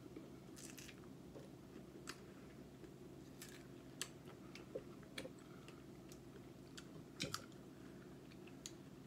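Quiet chewing of fresh strawberries, with scattered soft mouth clicks and smacks over a steady low hum.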